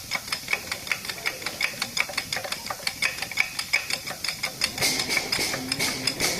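Rapid, even metal-on-metal strikes, about five or six a second, each ringing briefly: a hammer working on steel truck suspension parts.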